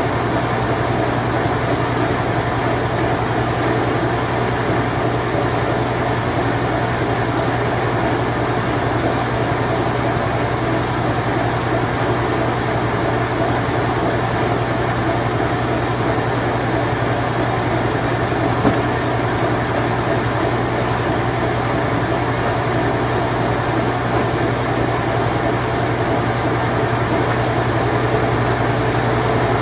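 Late-1980s Whirlpool Imperial Clean Touch washing machine running in its spin cycle: a steady motor hum with an even whirring rush over it. A single small click comes about two-thirds of the way through.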